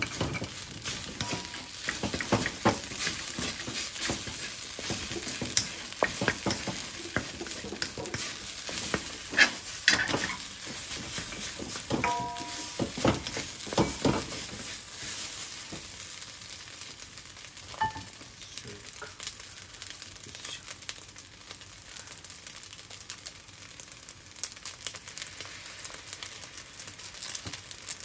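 Rice and egg frying in a wok with a steady sizzle while a wooden spatula stirs and presses it, scraping and tapping against the pan. The strokes are busiest in the first half; after that the sizzle goes on quieter with only an occasional scrape.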